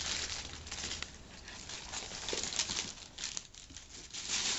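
Wrapping paper being torn and crumpled as a gift is unwrapped, in irregular rustling bursts.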